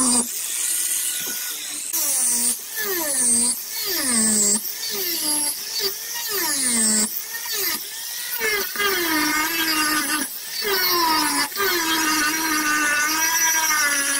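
Power grinder grinding into fiberglass, its pitch dropping again and again as it is pressed into the work and recovering as it eases off, then held lower and wavering under steadier load in the second half.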